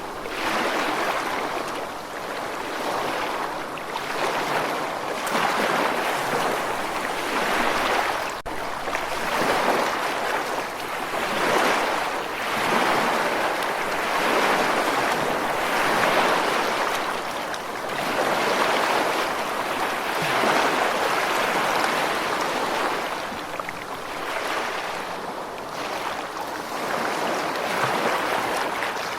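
Ocean surf washing ashore: a continuous rushing hiss that swells and subsides every few seconds as waves break and draw back.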